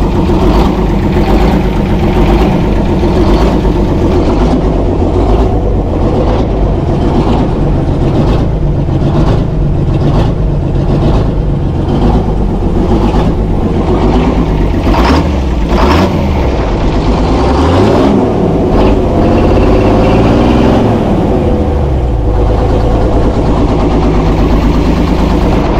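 Chevy C90 semi truck's Detroit Diesel two-stroke engine running, loud and steady after being brought back to life, with the revs rising and falling about two-thirds of the way through.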